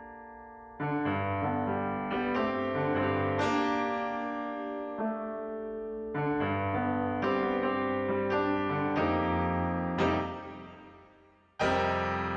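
Background piano music: slow chords and notes struck one after another, each ringing and fading.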